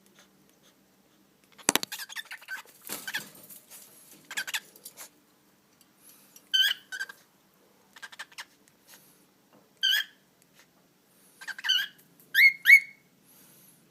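Pet birds chirping and chattering, ending in short, sharp chirps that rise in pitch, the loudest two close together near the end. A sharp knock sounds about two seconds in.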